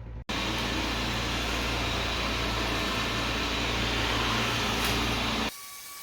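Xiaomi Mijia Mop P robot vacuum running: a steady whir of its suction fan over a low hum. The sound cuts off abruptly about five and a half seconds in.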